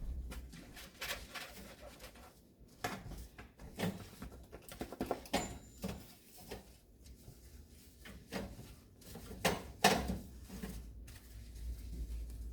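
Irregular light clatter of kitchenware being handled: scattered clicks and knocks, the sharpest about ten seconds in.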